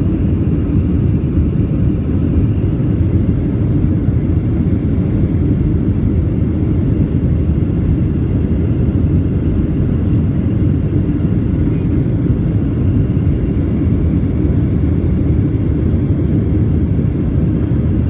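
Cabin noise of a Boeing 737-700 heard from a passenger seat: a steady, loud, low rumble of the CFM56 engines and airflow, unchanging throughout.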